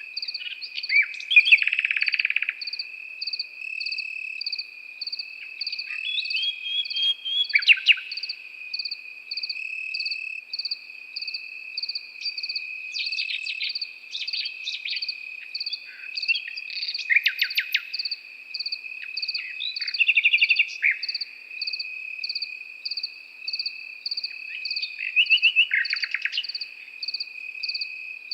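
Nightingale singing in separate short phrases of rapid repeated notes, about six times. Under it crickets keep up a continuous high trill and a second, evenly pulsed chirping at about two chirps a second.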